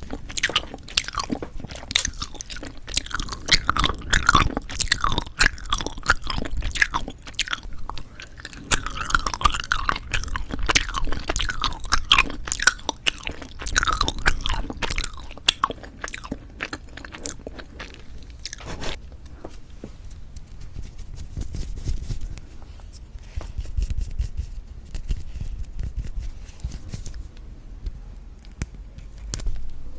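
Close-miked chewing and biting of novelty jelly candy, with crisp crunches and wet clicking. It is busy and loud for the first half, then thins out to slower, softer chewing.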